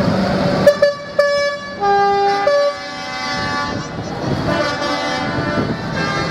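Vehicle horns tooting, most likely tractor horns, over running engines. There are two short sharp toots about a second in, then a lower horn held for about half a second, then several horns sounding together in overlapping tones.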